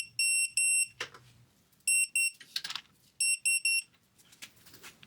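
Short, high electronic beeps from a digital torque wrench signalling that the set torque has been reached: three quick beeps, then two, then three more. Brief scraping sounds come between the groups.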